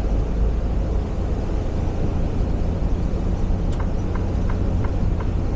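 Steady low rumble of a semi truck's diesel engine and road noise heard inside the cab while driving. From a bit over halfway through, a light, even ticking starts, about three ticks a second.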